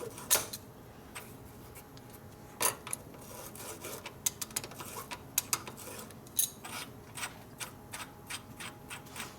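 Small metal parts of a warm, torch-heated vintage fuel strainer being worked apart by hand: irregular scrapes and sharp clicks, two louder knocks early on and a run of quick light ticks in the second half.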